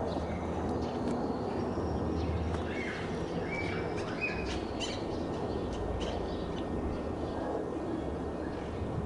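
Birds chirping, a handful of short chirps a few seconds in, over a steady low background rumble.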